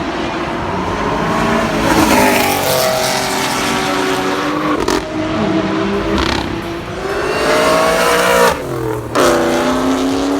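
A performance car's engine accelerating hard through the gears. Its pitch climbs, then falls back at each upshift, with sharp cracks around some of the shifts. After a short dip near the end the engine holds at a lower, steady pitch.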